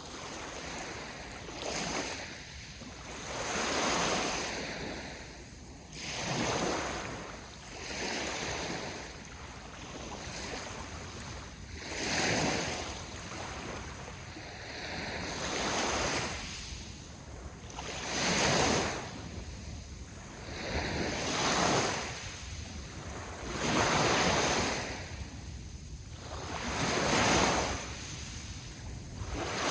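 Sea waves breaking and washing on the shore, the surf swelling and fading every two to three seconds, with a low rumble of wind on the microphone.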